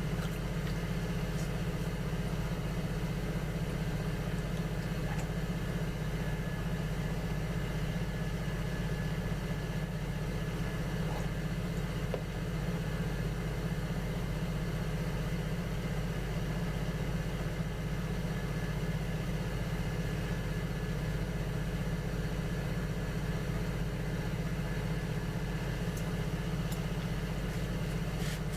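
Electric potter's wheel motor running with a steady low hum, with a few faint clicks.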